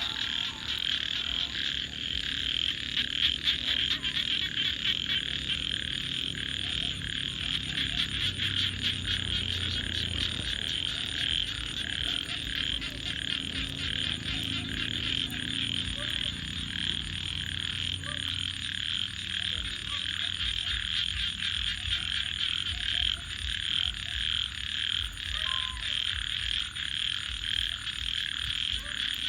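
A dense chorus of frogs calling steadily, over a crackling campfire with many small pops. A thin high pulsing trill joins about five seconds in.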